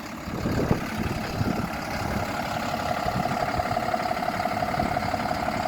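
Diesel engine idling steadily, with a steady hum joining about a second and a half in.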